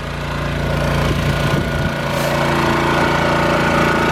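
A car engine running steadily, getting louder over about the first second and then holding.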